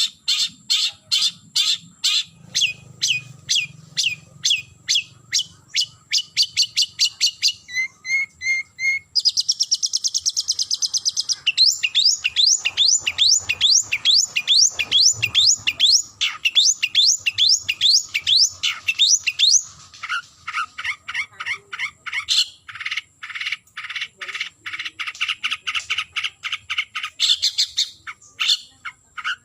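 Long-tailed shrike (cendet) singing a loud, fast chattering series of repeated high notes that changes phrase several times: a quicker trill about a third of the way in, then a run of rapid sweeping notes, then back to steady repeated notes. It is the shrike's challenge song to a rival.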